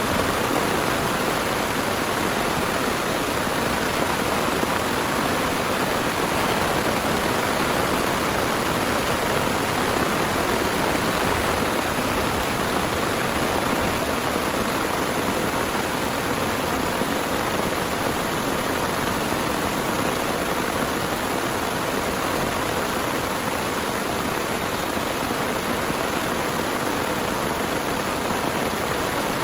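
Heavy rain pouring steadily, an even unbroken hiss with no let-up.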